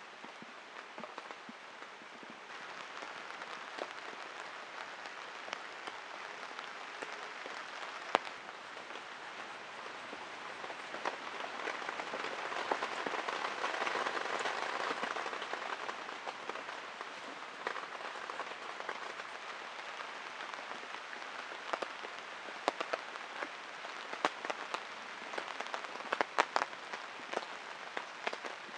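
Heavy rain falling steadily, with louder individual drops striking close by; the rain swells around the middle and a quick run of drops lands near the end.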